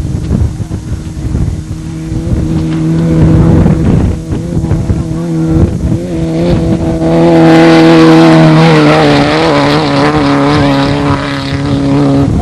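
Off-road desert race car's engine running at a steady pitch, growing louder and brighter about seven seconds in, with the pitch wavering a little afterwards.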